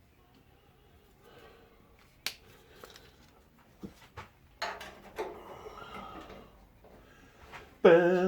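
Light clicks and knocks of a small sheet-steel repair panel being handled and test-fitted against a car's bulkhead, with quiet stretches between them. A voice starts loudly near the end.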